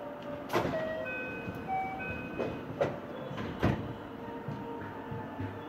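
Electric local train running, its motors giving short steady tones that step from one pitch to another, with four sharp knocks from the running gear.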